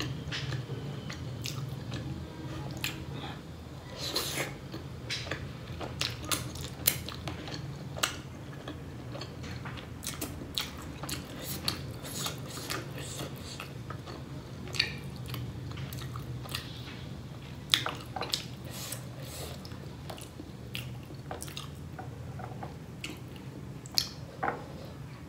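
Close-miked chewing and wet mouth clicks of someone eating steamed pork momos dipped in chutney, with scattered sharp clicks throughout and a few louder ones, over a low steady hum.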